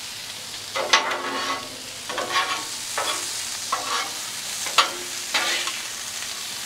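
Frozen corn kernels sizzling in bacon grease on a hot steel flat-top griddle, with metal spatulas scraping and clinking against the griddle top about six times as the corn is tossed and coated.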